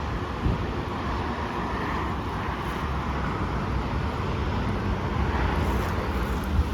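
Steady interstate traffic noise from passing cars: an even low rumble with tyre hiss and no distinct single events.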